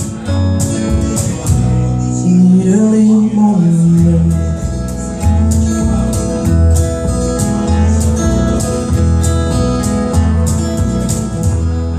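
Instrumental ending of a folk-country song played by a band: guitar over a moving bass line with regular percussion strikes, and no singing.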